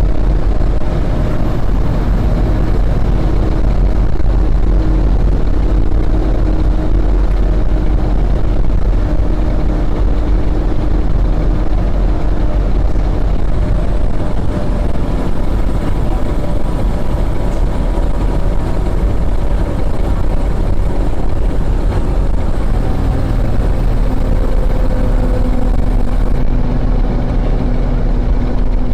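Fire engine's diesel engine running with a steady low rumble, heard from inside the cab; its pitch shifts a couple of times.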